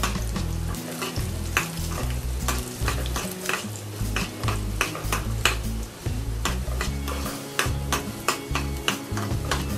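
Chopped garlic, cumin seeds and dried red chillies sizzling in hot oil in a small pan: the tadka (tempering) for dal fry frying. A metal spoon stirs them, clicking and scraping against the pan many times.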